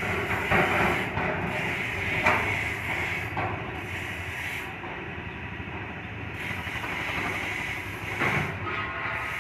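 An engine running steadily, with a hiss over it and a few sharp knocks.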